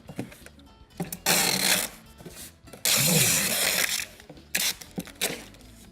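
Packing tape pulled off a handheld tape dispenser to seal a cardboard box: two long, loud ripping pulls, the second about a second after the first, followed by a few short snaps and taps as the tape is cut and pressed down.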